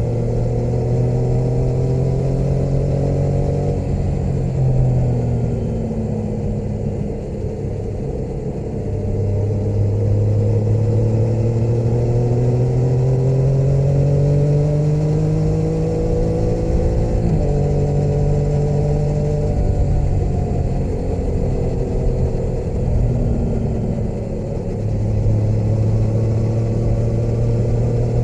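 Motorcycle engine running under way on the road. Its pitch falls and rises with the throttle, climbing slowly through the middle, then shifts suddenly about two-thirds of the way through.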